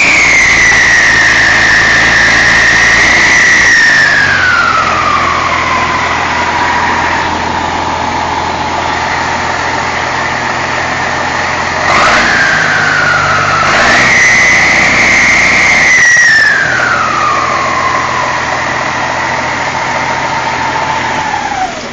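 Turbocharged engine of a 1970s forestry tanker truck revved twice, its turbo whistle climbing and then winding down over a few seconds to a steady whine at idle. The second rev comes about halfway through, and the whine and engine start to drop away at the very end.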